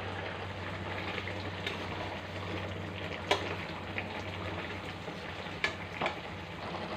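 Tel koi gravy, climbing perch cooked in oil and spices, sizzling and bubbling in the pan. A few sharp clicks of a spatula against the pan come about halfway through and twice near the end.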